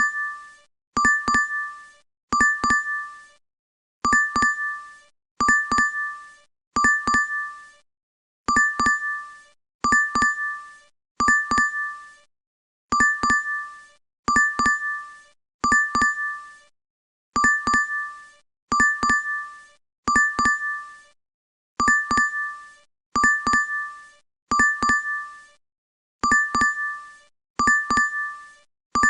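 DoorDash app notification chime, a bright two-tone ding repeated over and over, often in quick doubles, each ding fading out quickly.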